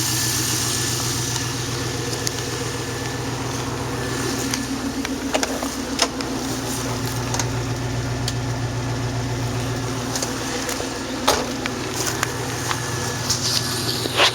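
A 1999 Camaro Z28's LS1 5.7-litre V8 idling steadily while it warms up from a cold start, its exhaust open after the Y-pipe. A few sharp clicks sound over it.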